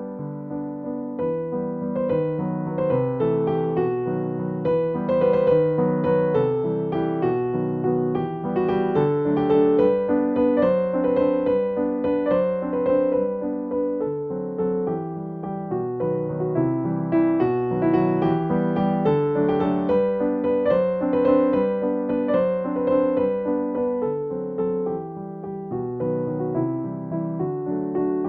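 Background piano music: a slow, gentle run of sustained notes.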